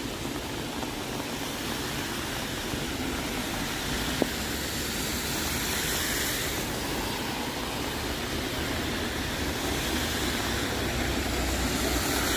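Train running past with a steady rumble that grows slowly louder, with a single sharp click about four seconds in.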